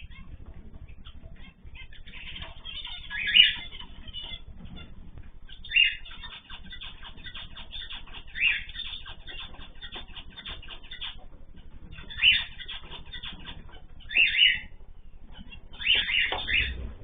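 A group of small cage birds chirping and twittering without pause, with louder calls breaking out every couple of seconds and a run of several near the end.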